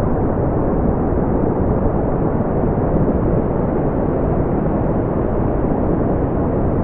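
Steady brown noise: an even, deep rushing hiss, strongest in the low end and falling off toward the highs, with no changes or events.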